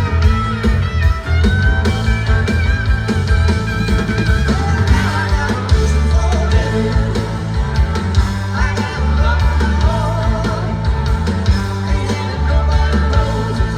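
Live rock band music: a heavy, steady bass under guitars, with a wavering lead line above.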